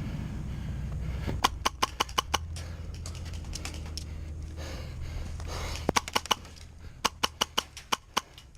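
An airsoft gun firing three quick strings of sharp shots, about five a second, the loudest from close by. There is a low wind rumble on the microphone throughout.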